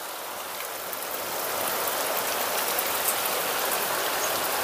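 Heavy rain falling steadily, a dense even hiss that swells slightly in the first couple of seconds.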